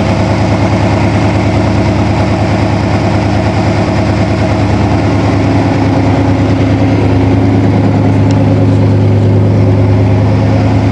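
Chevrolet 350 Vortec small-block V8, freshly rebuilt, idling steadily. Its exhaust pipes are only loosely fitted to the manifolds and not yet welded up.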